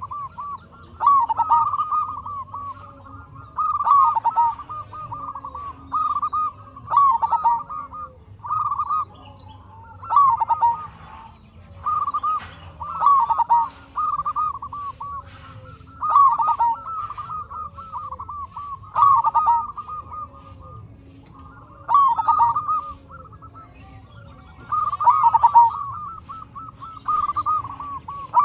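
Zebra dove (perkutut) cooing in repeated phrases of quick, bubbling notes, a new phrase every few seconds.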